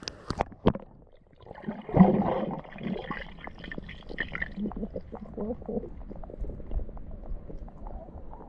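Water gurgling and bubbling as heard underwater, with a burst of sloshing about two seconds in, then a steady jumble of small bubble pops and clicks.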